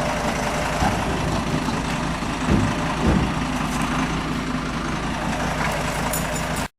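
Old tractor's diesel engine idling steadily, with two low thumps about two and a half and three seconds in.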